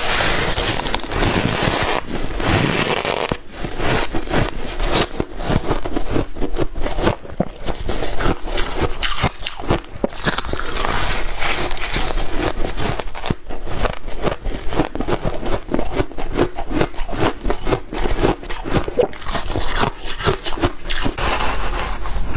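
White ice being bitten and chewed: a dense, irregular run of sharp crunches and crackles that goes on without a break.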